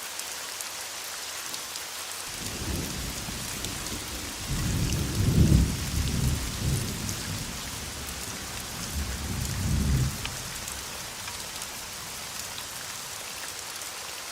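Steady rain hissing, with a low roll of thunder that builds a couple of seconds in, is loudest about five seconds in, swells again near ten seconds, then dies away.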